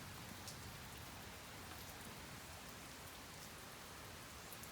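Light rain falling steadily, a soft even hiss with a few faint drop ticks.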